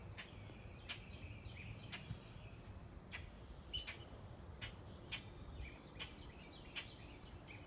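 Small songbirds at a backyard feeder chirping: short, sharp chip notes repeated about once or twice a second, with some higher twitters among them.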